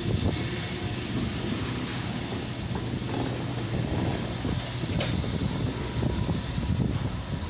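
Freight cars of a long CSX mixed freight train rolling past close by: a steady, heavy rumble of steel wheels on the rails.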